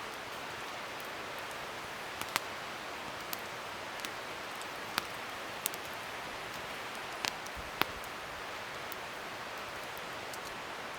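Wood fire burning: a steady hiss of flames with several sharp crackles and pops from the burning wood, scattered irregularly.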